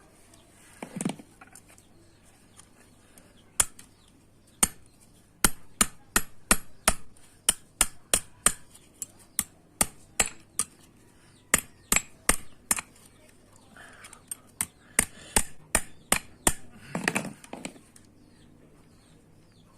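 Hand hammer striking a metal bread pan as it is shaped: a steady run of sharp, ringing blows, about two to three a second, with a short pause midway. A duller, longer knock comes once near the start and again near the end.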